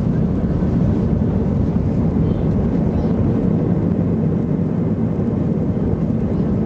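Steady rumble of engine and airflow noise heard inside the cabin of an Airbus A320-214 airliner with CFM56 turbofans as it lands, even and without any sharp thump.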